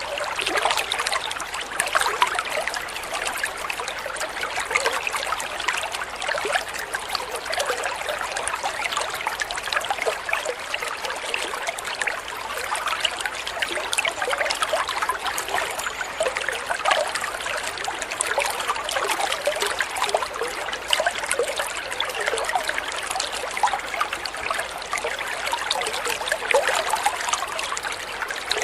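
Flowing water trickling and babbling steadily, with many small splashes.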